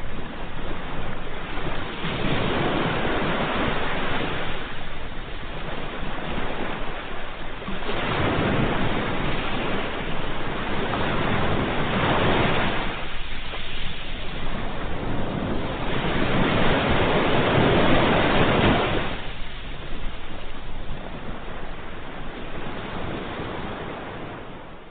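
Ocean surf: waves breaking and washing back, swelling and falling about four times, a few seconds apart, then fading down near the end.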